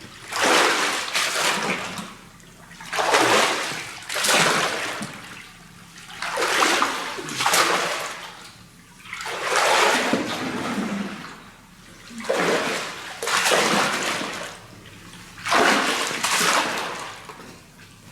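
Water pouring and splashing in about seven separate surges, each lasting a second or so and coming roughly every two seconds.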